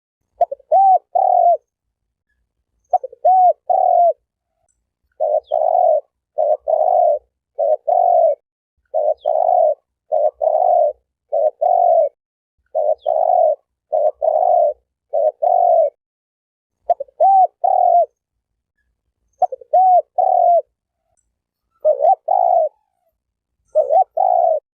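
Spotted dove cooing: repeated phrases of two or three low coos, some opening with a short rising-and-falling note. The phrases come about every second or two, with silent gaps between groups.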